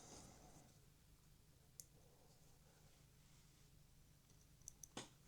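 Near silence with a few faint, sharp clicks of small plastic model parts and a tool being handled: one about two seconds in and a few together near the end.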